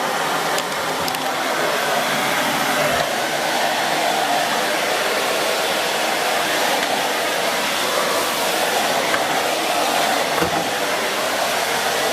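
Miele S6 Cat and Dog cylinder vacuum cleaner with its 2000 W motor, running steadily at full power with an even rushing hiss of suction.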